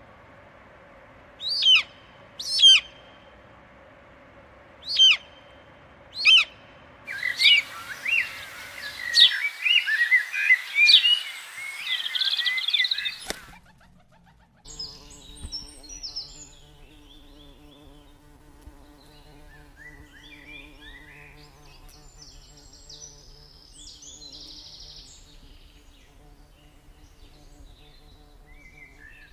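Birds calling in a park: a few loud, separate sweeping calls, then a dense chorus of chirping that cuts off abruptly about halfway through. After that come fainter, scattered chirps over a low steady hum.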